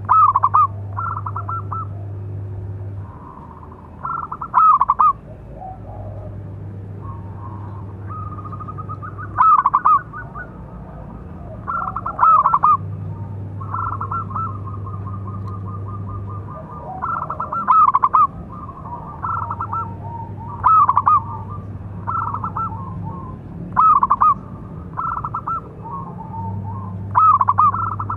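Local-strain zebra dove (perkutut) cooing. Loud bursts of quick, stuttering coos come about every three seconds, with softer rapid coos in between.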